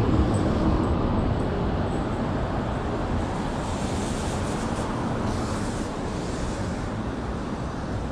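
City street traffic noise: a steady rush of passing vehicles that slowly fades a little.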